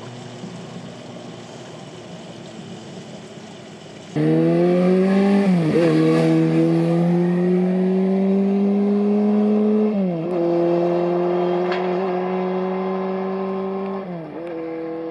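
Honda CB400Four air-cooled inline-four through a Yoshimura short exhaust, running under way. It is quieter at first, then abruptly much louder about four seconds in. The engine note then climbs steadily under acceleration, with three upshifts where the pitch drops and builds again.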